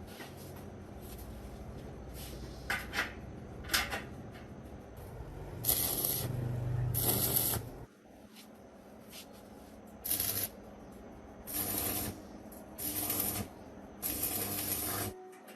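A series of short hissing bursts, about six of them, each half a second to a second long, over a low steady hum that drops away about halfway through.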